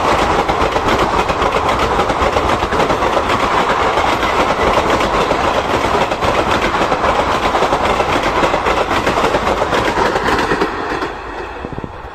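Express passenger train passing close at speed: a loud, steady rolling noise packed with rapid clickety-clack from the wheels over the rail joints, fading away quickly near the end as the train moves off.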